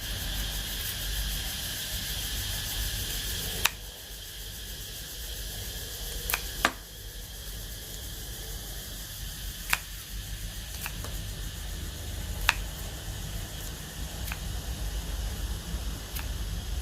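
A steady low hum and hiss with sharp clicks or taps every one to three seconds, about eight in all. A higher-pitched hum over it stops with the first click, about four seconds in.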